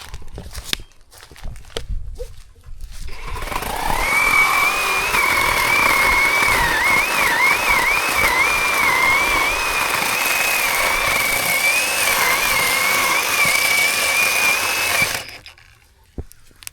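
Zhipu 48V cordless chainsaw running for about twelve seconds. It starts about three seconds in with a high whine that wavers in pitch, and cuts off suddenly near the end. A few clicks come before it starts.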